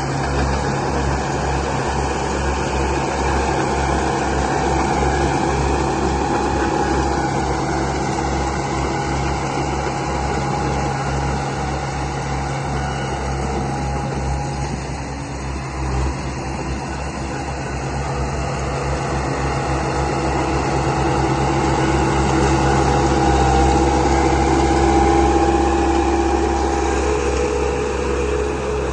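Radio-controlled construction models running: a steady engine-like hum with a rapid low throbbing that continues throughout, getting slightly louder after the middle.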